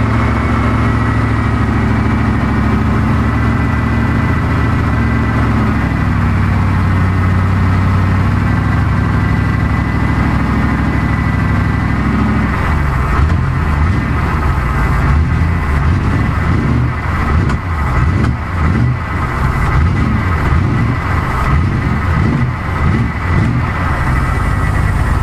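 Triumph Stag 3.0-litre V8 running after an engine overhaul, idling steadily at first. About halfway through, with a hand on the carburettor linkage, the engine speed turns uneven, rising and falling, before steadying near the end.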